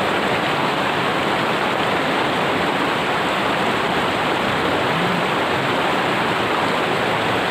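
River water rushing steadily over rocks, a loud, even wash with no let-up; the river is running high after rain.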